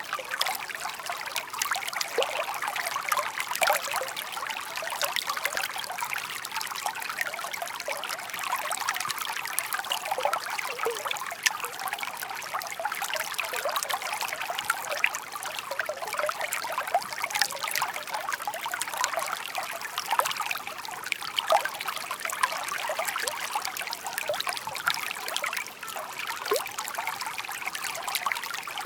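Shallow stream babbling and trickling over stones: a steady, close, bubbling water sound full of small splashes and gurgles.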